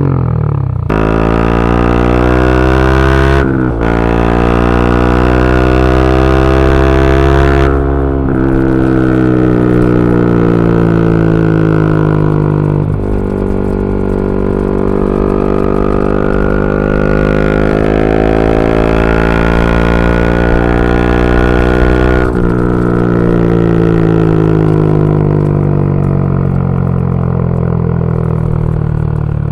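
Yamaha R125's single-cylinder four-stroke engine through a Dominator GP straight-pipe exhaust, accelerating with the pitch climbing and dropping back at several quick upshifts. In the last few seconds the pitch falls steadily as the bike slows.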